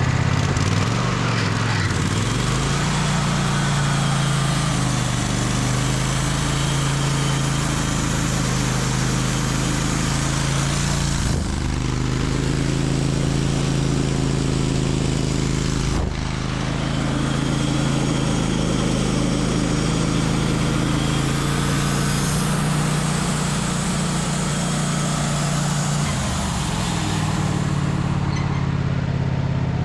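Gas engine of a portable band sawmill running under load with the blade engaged. Its pitch dips about a second in as the blade takes up, then holds steady over a hiss of the band blade sawing through a hard maple log, with two brief breaks in the middle.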